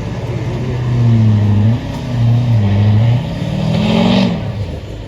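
Pulling truck's engine revving hard under load, its pitch surging and dipping about three times before the revs drop off near the end.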